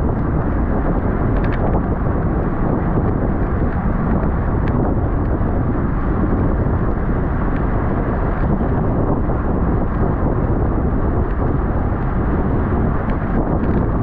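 Steady wind rush buffeting the microphone of a camera riding on a road racing bicycle at race speed, with faint ticks here and there.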